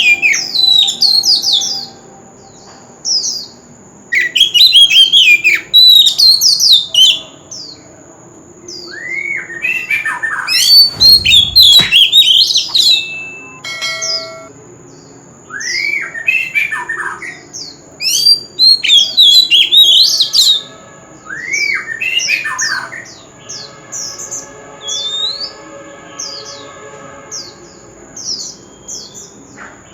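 Oriental magpie-robin singing loud, varied phrases of quick whistled and scratchy notes in bursts a second or two long, with short pauses between. A thin steady high tone runs underneath.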